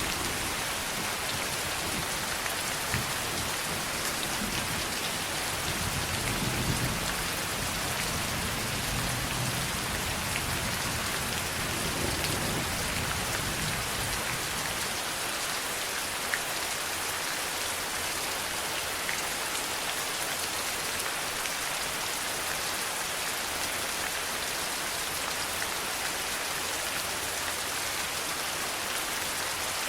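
Steady heavy rain falling in an even, dense hiss, with a faint low rumble of distant thunder in the first half.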